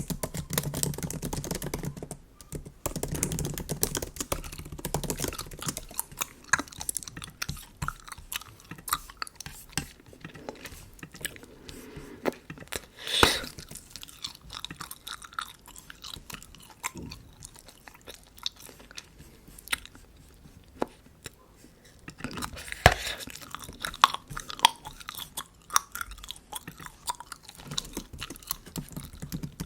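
Close-miked bubble gum chewing: a steady run of small wet smacking clicks, with a louder sharp snap about thirteen seconds in and another near twenty-three seconds.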